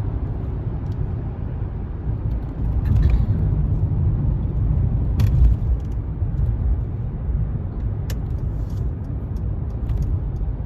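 Low, steady rumble of a car running, swelling a little in the middle, with two sharp clicks about five and eight seconds in.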